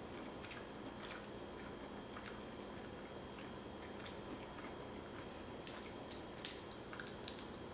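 Quiet mouth sounds of a person chewing cooked shrimp, with soft scattered clicks. About six seconds in comes a short cluster of sharper crackles.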